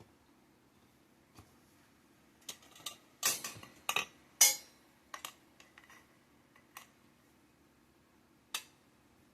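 Metal poles and shelf racks of a mini greenhouse frame clinking and knocking against each other while being fitted together, with a flurry of louder clatters in the middle and scattered taps after.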